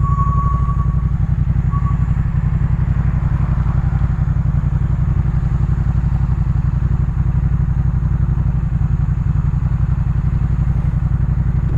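Yamaha MT-07's parallel-twin engine, breathing through a Jeskap K4 full aftermarket exhaust, running at one unchanging engine speed with a rapid, even exhaust pulse.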